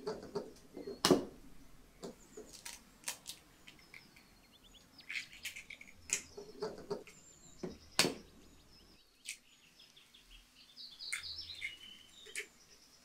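Small birds chirping in short bursts, with a few sharp knocks between them, the loudest about a second in and again about eight seconds in.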